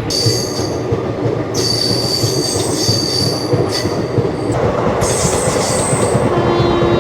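Wheels of a moving passenger train squealing on the rails in several high-pitched stretches over the steady rumble of the coach, heard from inside the carriage. Near the end a steady horn tone begins.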